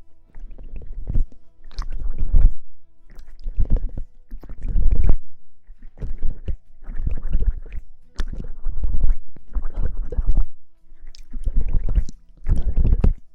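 Rhythmic rubbing and rustling right against a microphone, about ten strokes in a row, roughly one a second, each a swishing scrub with a deep rumble.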